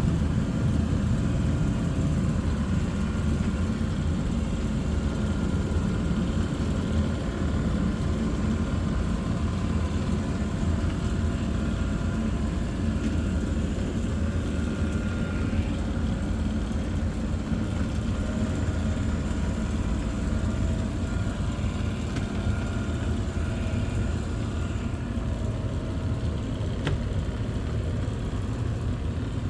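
Robot vacuum running: a steady motor hum with faint whining tones that come and go, and a single click near the end.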